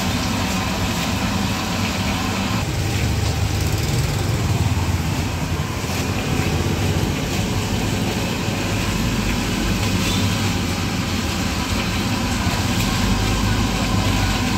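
Electric fish-paste grinding mortar running steadily with a low motor hum.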